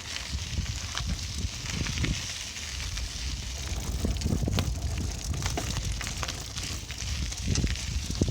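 Riding a bicycle: wind buffeting the microphone as a low rumble, with irregular crackling and rattling clicks from the tyres and the bike.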